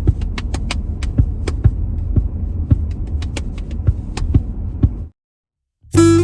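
Low, steady rumble inside a car's cabin in slow traffic, with irregular sharp clicks over it. About five seconds in it cuts off to silence, and strummed acoustic guitar music starts just before the end.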